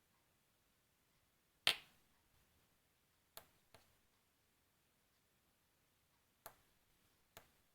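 Small push-button switches clicking: five short, sharp clicks spaced out with quiet between them. The first, under two seconds in, is the loudest, and two follow in quick succession in the middle.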